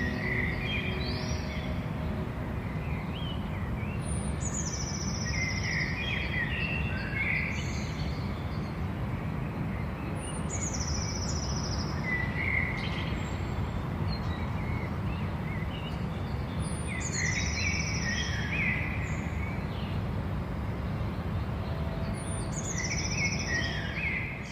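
Garden birds singing: one song phrase recurs about every six and a half seconds, a high falling trill followed by a few lower chirps. Beneath it runs a steady low background rumble.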